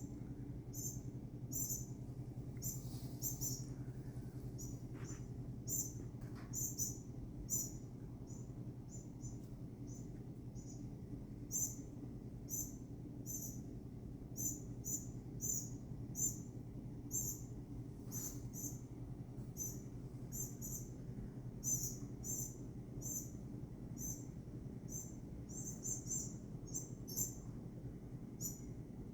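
Small bird giving short, high chirps again and again at an uneven pace, often two or three in quick succession, over a steady low hum.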